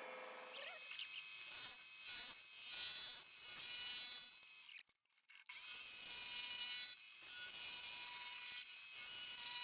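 Metal lathe running while a cutting tool takes a taper cut along a connecting-rod blank: a steady hiss of cutting with a faint steady whine, broken by a gap of about half a second midway.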